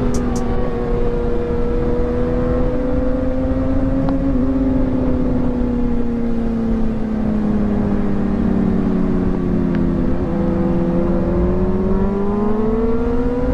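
Kawasaki ZX-6R 636 inline-four engine running at high revs under way, its pitch slowly sagging and then climbing again near the end, over a low wind rumble.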